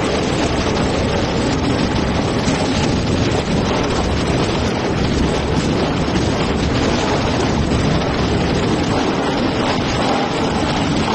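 Waste plastic bag washing line running: a loud, steady machinery noise with no breaks.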